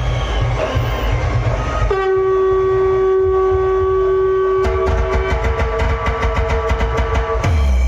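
Loud DJ dance music played through a big sound system. About two seconds in, the bass beat drops out for a long held horn blast in the style of a train horn. A few seconds later a second horn tone runs on over fast, even ticking, and the bass comes back near the end.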